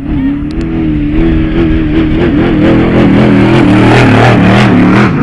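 Off-road race truck's engine running hard, its pitch rising and falling with the throttle as it grows louder toward a peak about four seconds in.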